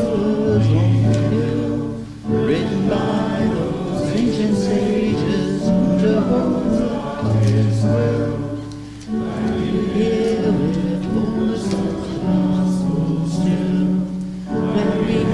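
A congregation singing a hymn in long held notes, with brief pauses between phrases about two, nine and fourteen seconds in.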